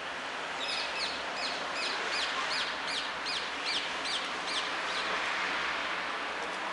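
A small songbird repeating one short, high, falling note about three times a second for some four seconds, then stopping, over a steady background hiss.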